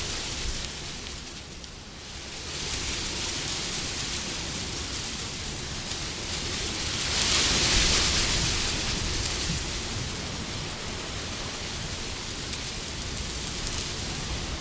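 Wind blowing, a steady rushing hiss that eases off about two seconds in, then swells to a louder gust about halfway through before settling again.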